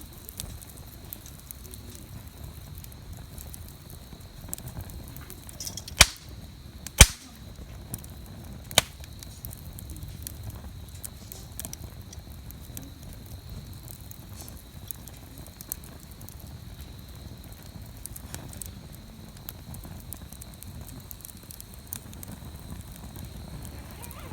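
Wood fire burning and crackling, with scattered small pops; three loud sharp snaps come about six, seven and nine seconds in.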